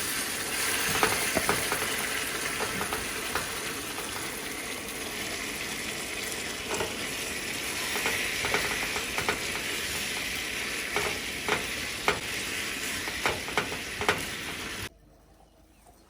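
Chicken wings sizzling as they fry in a pan, a steady hiss with scattered sharp pops and spatters; it cuts off abruptly near the end.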